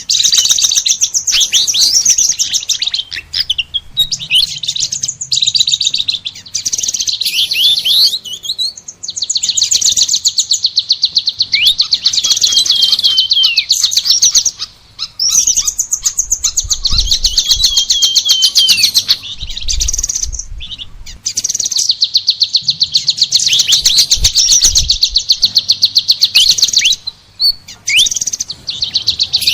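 Songbird song: a dense, fast, high-pitched chattering of rapid trills and quick whistled slurs, broken by short pauses several times.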